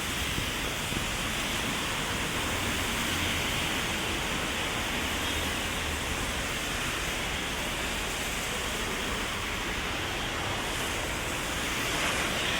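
Heavy rain falling as a steady, even hiss, heard from under an umbrella.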